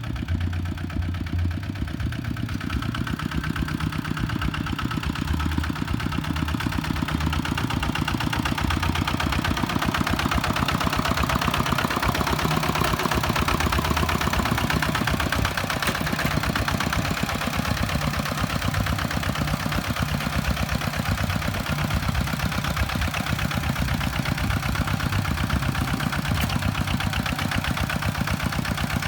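Kubota farm tractor's diesel engine running steadily with a rapid, even chug; its sound fills out and grows a little louder a couple of seconds in.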